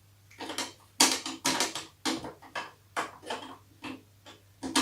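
Irregular rustling and clattering of things being handled by hand, roughly two sounds a second, some sharper than others.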